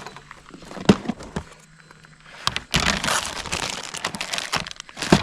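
Packaging crinkling as it is handled and opened by hand. There are a few sharp knocks about a second in, a longer stretch of dense crinkling in the second half, and another knock near the end.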